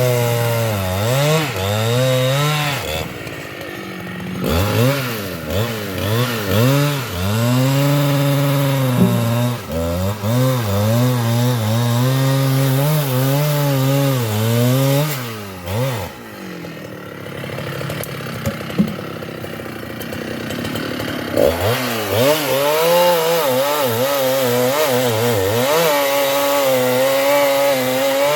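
Large Husqvarna two-stroke chainsaw cutting into a sengon (albizia) tree, its engine pitch dipping and recovering again and again as the chain bogs under load. About sixteen seconds in the engine drops back for several seconds, then revs up and cuts again near the end.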